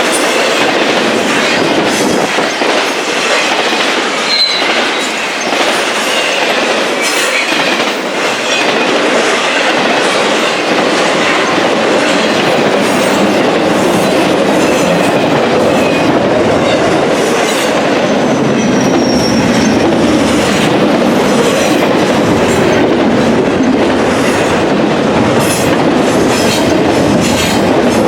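A train's cars rolling past close by in a loud, steady rumble, the wheels clicking over the rail joints, with a couple of brief high wheel squeals.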